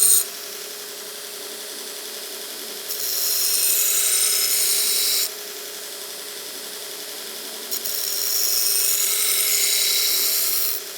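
Belt grinder running on a 36-grit belt, with a forged railroad-spike knife blade pressed flat across it twice: each pass is a loud grinding hiss lasting two to three seconds, starting about three seconds in and again near eight seconds, with the motor and belt running steadily between. The passes are the rough grind of the blade face, taking metal off the low spots.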